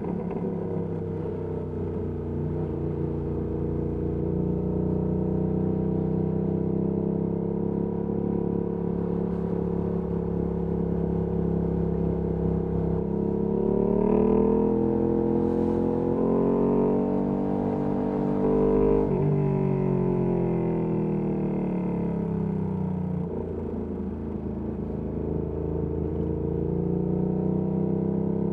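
Ducati Panigale V2S twin-cylinder engine through a Termignoni exhaust, ridden at city speed. It holds steady revs at first, climbs in pitch from about halfway through, drops suddenly about two-thirds in, then builds again near the end.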